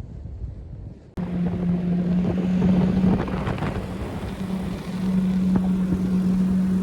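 Snowmobile engine running at a steady drone, with wind rushing over the microphone; it cuts in abruptly about a second in, after faint wind noise.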